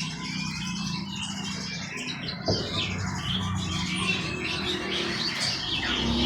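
Many caged songbirds chirping and calling at once, short overlapping calls over a low steady hum.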